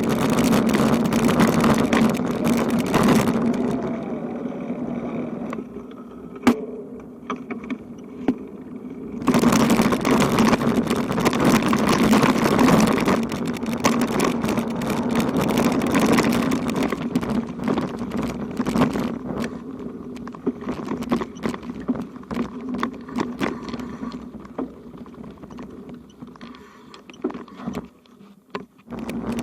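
Continuous road noise with a steady low hum, fading and swelling again as a vehicle passes, with scattered clicks and rattles.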